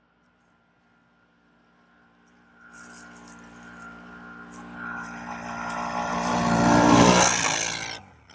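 ATV engine noise, very faint and steady at first. About two and a half seconds in it grows steadily louder for some five seconds to a peak, then falls away and cuts off abruptly near the end.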